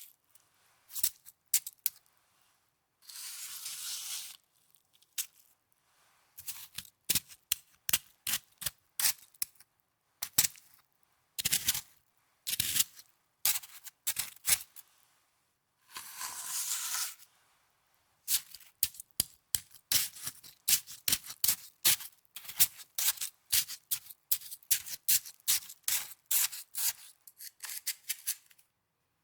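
Snow being handled close to the microphone: sharp, crisp crunching crackles in bursts that grow dense in the second half, with two longer hissing swishes, one about three seconds in and one about sixteen seconds in.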